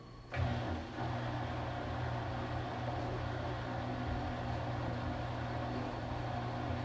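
Washing machine motor starting up about half a second in, then running with a steady low hum and a band of steady higher tones.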